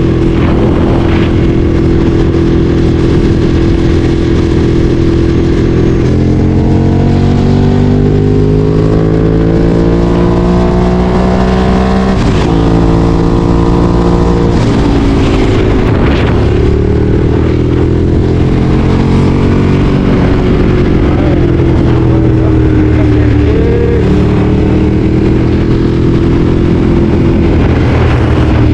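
Ducati Streetfighter 848's L-twin engine running under way: it holds a steady note, rises in pitch for about six seconds as the bike accelerates, breaks briefly about twelve seconds in, then drops back and runs on steadily with small rises and falls.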